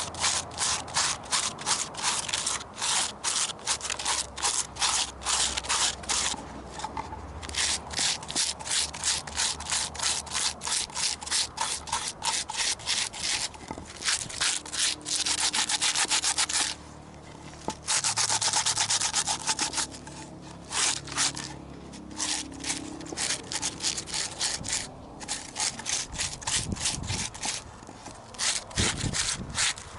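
Sandpaper rubbed by hand over a carved wooden tray in quick back-and-forth strokes, about four a second. Two unbroken stretches of rubbing come about halfway through. This is the finishing stage before the piece is declared done.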